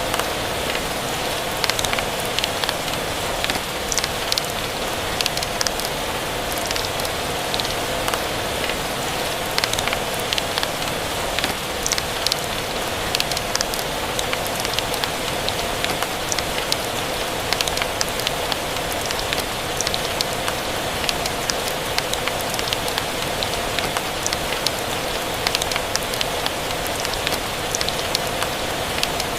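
Steady rain mixed with a crackling wood fire: a continuous rain hiss with frequent small sharp crackles and pops.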